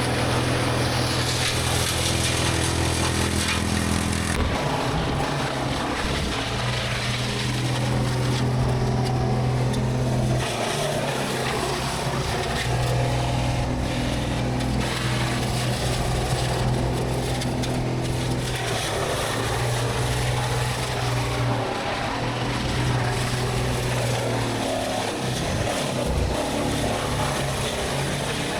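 A machine's engine running steadily, its note changing about four seconds in and wavering slightly afterwards.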